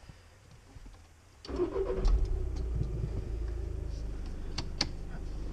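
Volkswagen Caddy's 2-litre engine starting about a second and a half in, catching with a brief surge and settling into a steady idle. Two sharp clicks near the end.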